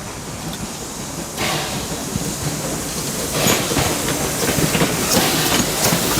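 Steam train of Calumet & Hecla 0-6-4T tank engine No. 3 "Torch Lake" running by, with a hiss and the clicking of wheels over the rails. It grows louder about three seconds in.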